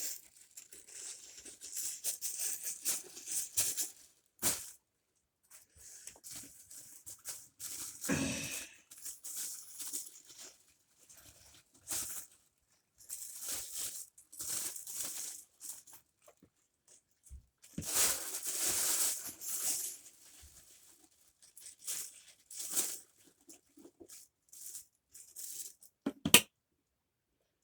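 Irregular rustling and rattling of dirt and debris being emptied out of a Shark vacuum's plastic dust bin, with clicks of the plastic parts being handled; a sharper click near the end.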